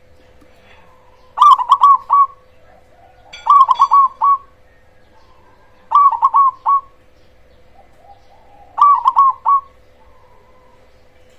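A zebra dove (perkutut) of the black cemani variety cooing its song. It gives four phrases, each a quick run of clipped notes, about two to three seconds apart, over a faint steady hum.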